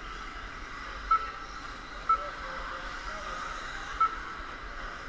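Electric RC stadium trucks racing on a track: a steady whine and hiss of motors and tyres, broken by three short high beeps about one, two and four seconds in.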